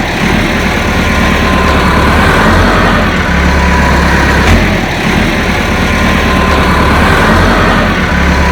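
An engine idling loudly and steadily, with strong low rumble.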